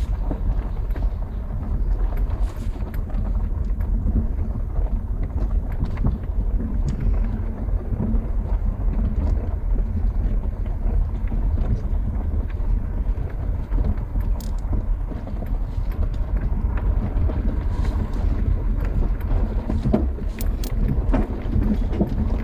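A car driving slowly along a rough track, heard from inside the cabin: a steady low rumble of engine and tyres, with scattered small clicks and ticks throughout.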